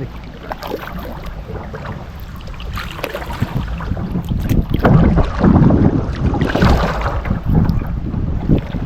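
Kayak paddling: paddle strokes splashing and water sloshing, with wind buffeting the microphone. It grows louder about halfway through.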